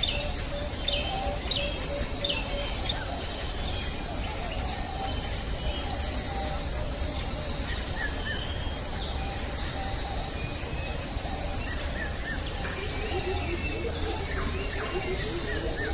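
Insects trilling steadily on one high pitch, with several birds chirping and calling over them in short repeated notes and falling whistles.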